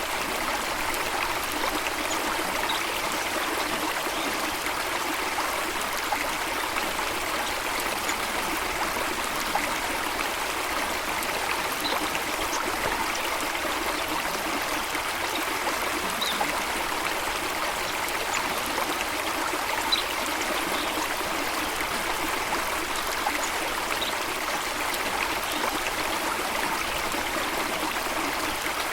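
Running water flowing steadily, an even rush with trickling.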